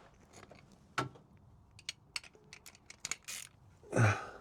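Hand ratchet working a tight bolt on a van's fuel-tank strap: a run of irregular sharp metallic clicks, with a louder burst of sound near the end.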